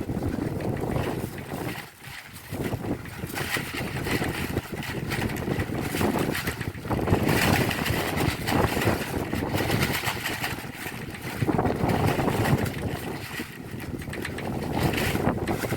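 Heavy rain on roof tiles with strong wind. A steady rushing noise swells and eases in gusts every few seconds.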